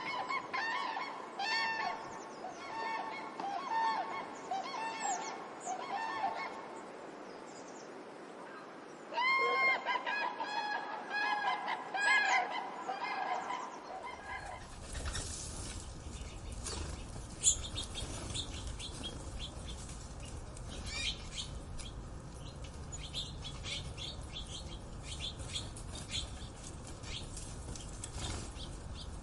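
Birds giving repeated honking calls in two runs of calls. About halfway through, this gives way to a busy chorus of short chirps and clicks over a low rumble.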